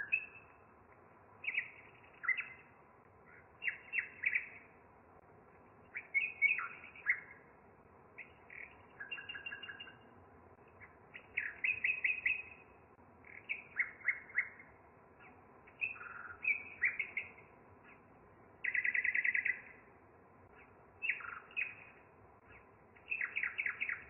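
Small songbirds chirping and singing in short, separate phrases every second or two, with one fast trill lasting about a second near the end.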